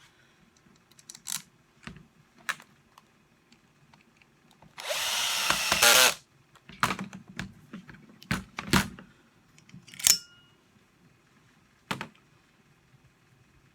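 A cordless screwdriver runs for just over a second about five seconds in, driving a greased self-tapping screw into the plastic housing of a reciprocating saw. Sharp clicks and knocks come before and after it as the tool and parts are handled.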